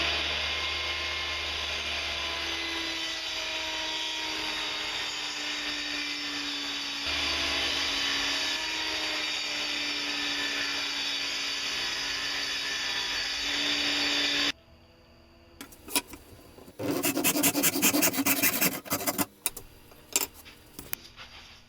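A power tool running steadily while cutting wood, its pitch sagging slightly under load, then stopping abruptly. After a short pause comes about two and a half seconds of rapid scraping strokes on wood, followed by a few light knocks.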